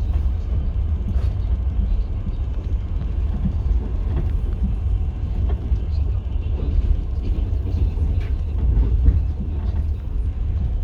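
Passenger train running along the track, heard from inside the carriage: a steady low rumble with scattered clicks and knocks from the wheels on the rails.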